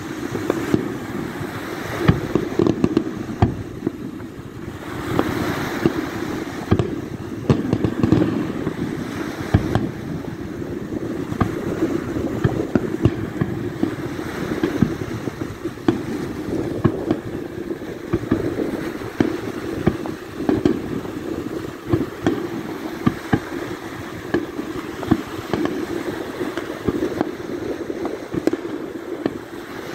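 Aerial fireworks shells bursting in a rapid, irregular string of sharp bangs over a steady background noise.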